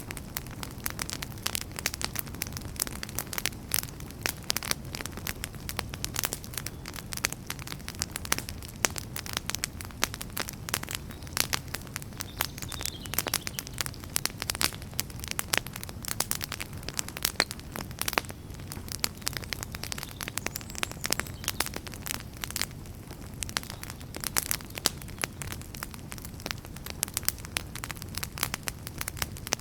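Wood fire burning in a fireplace: logs crackling and popping in a dense run of sharp snaps over a steady low rumble of the flames.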